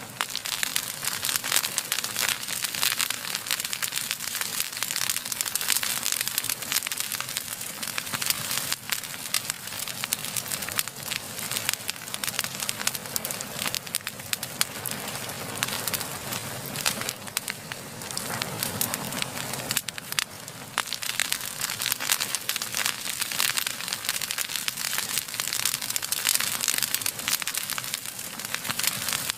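Wood fire burning, with a dense, continuous crackle of many small sharp pops over a steady hiss of flame.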